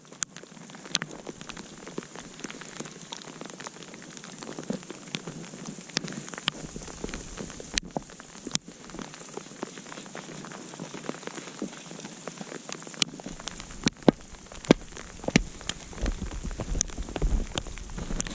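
Wood campfire crackling, with a steady hiss and many sharp pops, several louder ones in the second half. The wood is fairly dry, with little water in it.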